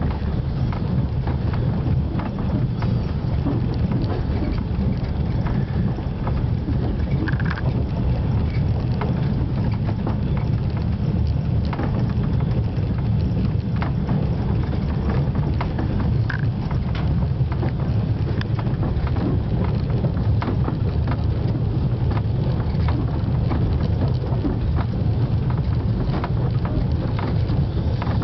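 Passenger train running at speed, heard from inside the carriage: a steady low rumble with light clicking and rattling over it.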